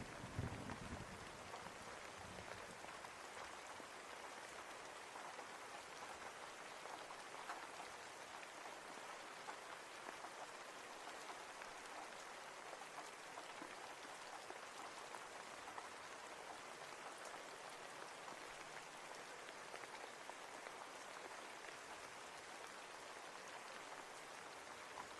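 Steady rain falling, an even hiss and patter of raindrops. A low rumble of thunder dies away in the first second or so.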